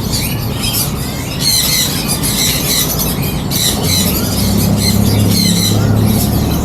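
Many caged small animals at pet-market stalls squeaking and chirping together in a constant high-pitched chatter. A low hum joins about four seconds in and fades near the end.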